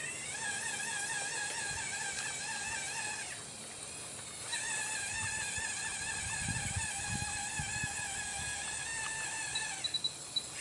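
RC model excavator's electric drive whining, its pitch wavering slightly with load. The whine stops for about a second roughly three seconds in and then resumes, with a few low knocks from the model working a little later.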